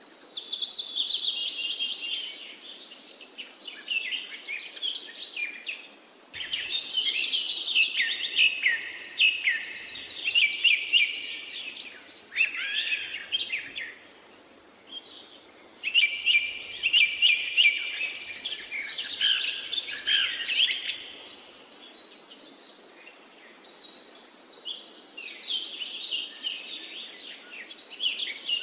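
Birds chirping and twittering, several calls overlapping, in loud stretches with quieter gaps between.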